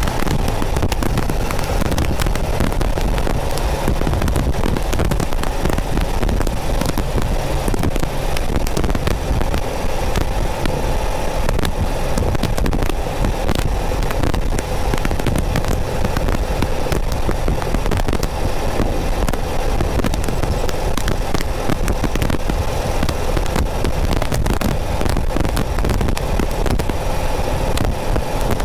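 Porsche 914's 2.0-litre air-cooled flat-four running steadily at cruise, picked up by a microphone behind the rear window. A dense, steady crackle of static runs through it.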